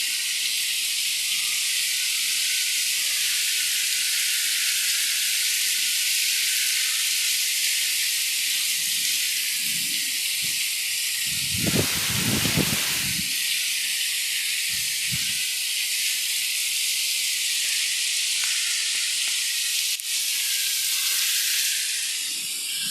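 Heavy, wind-driven rain falling, a steady dense hiss. About halfway through, a brief louder, lower sound rises over it.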